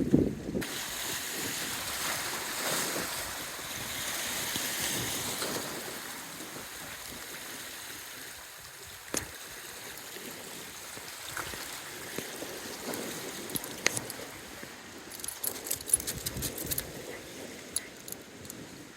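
Strong wind blowing and buffeting the microphone, easing after the first few seconds, with a quick run of light clicks and ticks near the end.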